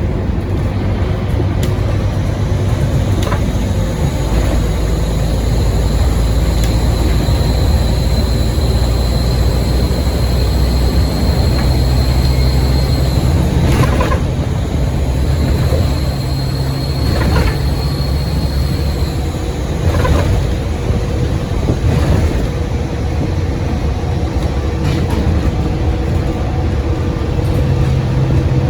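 Scania N230UD bus engine running under way, with a high turbo whistle that comes in twice and holds for a few seconds each time. A few sharp knocks and rattles come over it.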